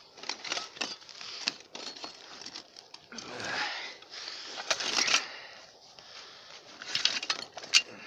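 Gear being handled and pulled out of a pack: irregular crinkly rustling with many sharp clicks, a longer scraping rustle about three seconds in, and the loudest clicks about five seconds in and near the end.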